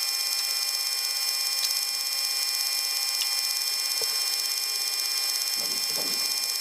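Steady hiss with a layer of high, constant whine tones from the E-3 Sentry's Pratt & Whitney TF33 turbofan engines, heard on the flight deck during engine start once the first engine has come up to speed.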